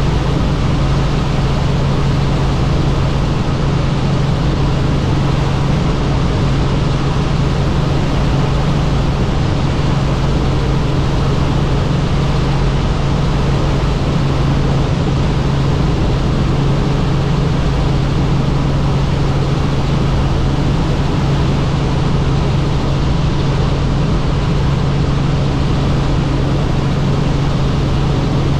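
Helicopter in flight: a loud, steady engine and rotor noise with a constant low hum and no change in pitch.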